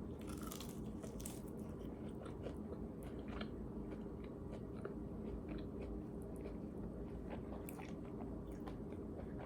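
A person biting into and chewing takeout honey chicken wings close to the microphone: faint, scattered crackly clicks of eating over a low steady hum.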